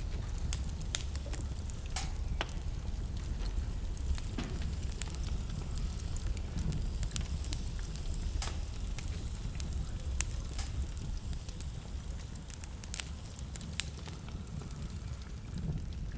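Wood fire burning in a fireplace, with a steady low rumble and sharp, irregular crackles and pops all through.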